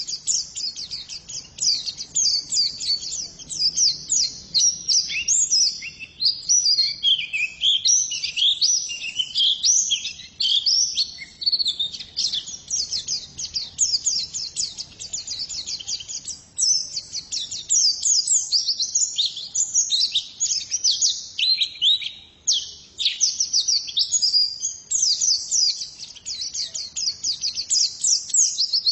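Female pleci (white-eye) singing a long, rapid run of high chirps and twitters, with only a couple of brief pauses.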